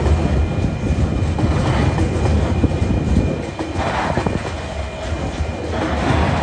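A coal train's wagons rolling past at low speed over a steady low rumble, the wheels clattering in a group about every two seconds.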